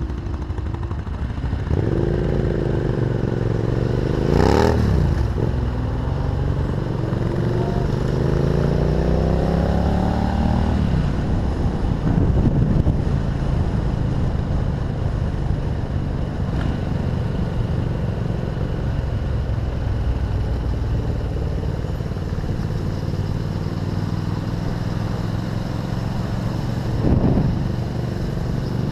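A vehicle engine running at low road speed, its pitch rising and falling as it speeds up and eases off. There is a brief louder sweep about four seconds in and again near the end.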